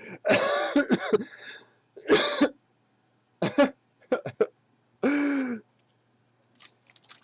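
A man clearing his throat and coughing, a series of short harsh vocal bursts without words, the last one a drawn-out falling noise. Faint rustling near the end.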